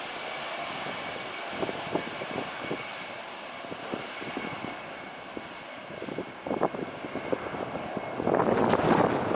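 Jet airliner engines, a steady rushing with a thin high whine that fades out. About eight seconds in, wind starts buffeting the microphone loudly.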